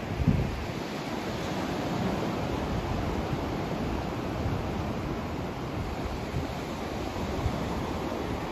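Steady rushing noise of a sleep white-noise track, heavier in the low end than the high, with a soft low thump about a third of a second in and another near the end.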